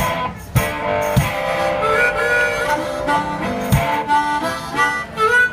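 One-man band playing: a harmonica melody over acoustic guitar, with a few low drum thumps.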